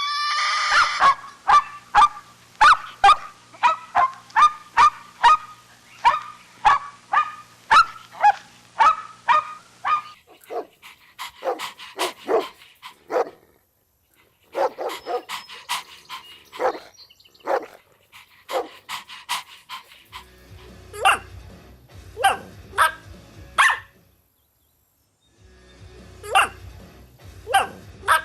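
Dogs barking repeatedly: a fast run of short barks, about two a second, for the first ten seconds, then several shorter bursts of barking with brief pauses between them.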